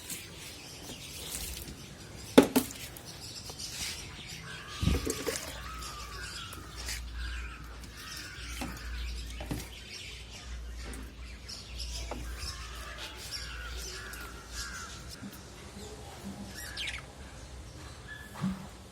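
Small pet parrots chattering with a series of short, harsh chirps, with sharp knocks, the loudest about two seconds in and another about five seconds in.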